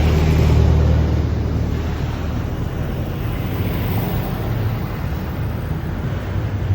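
A train running at or past the station platform: a steady low rumble with a hum, and wind-like rushing noise over it.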